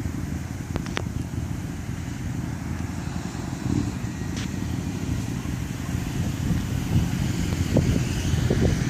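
Low, steady rumble of a Florida East Coast Railway freight train rolling past, with a few faint clicks.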